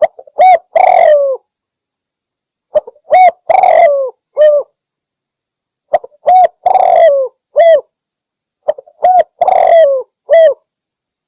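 Spotted dove (Javanese derkuku) cooing its song four times, about three seconds apart. Each phrase is a couple of quick short notes, then a longer coo that drops in pitch at its end, then one short closing coo.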